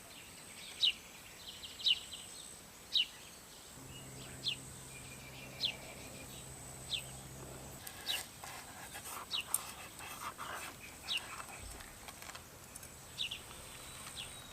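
A bird calling over and over, a short high note that falls in pitch, about once a second, with some light rustling and clicks midway through.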